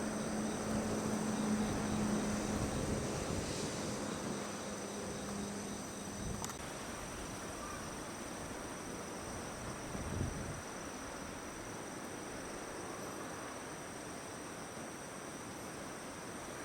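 Steady, high-pitched insect trilling, heard as two unbroken high tones. A low hum fades away over the first six seconds, with a click just past six seconds and a soft thump about ten seconds in.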